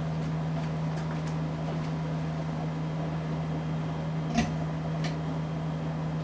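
Casablanca Delta ceiling fan running, its motor giving a steady low hum, with a few light clicks, the sharpest a little past four seconds in.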